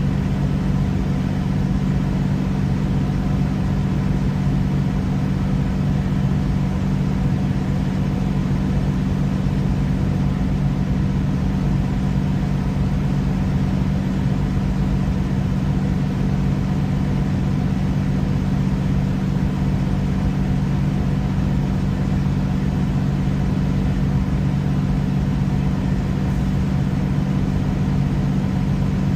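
Steady low mechanical hum with a few held low tones and no change in level.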